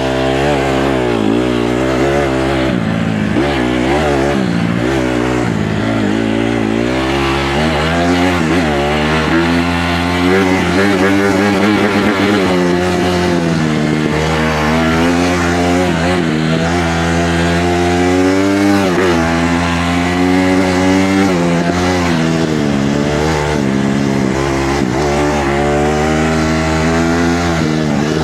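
Honda CRF150R dirt bike's single-cylinder four-stroke engine being ridden, its pitch rising and falling as the throttle is opened and rolled off over and over.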